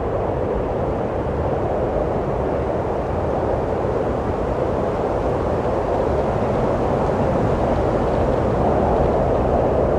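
Steady wind blowing, a low rushing noise that swells slightly toward the end.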